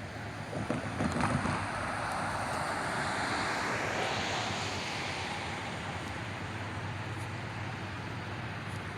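Train locomotive going by at speed: its engine and the rush of the train swell about a second in, are loudest over the next few seconds, then settle into the steadier rumble of the train rolling past.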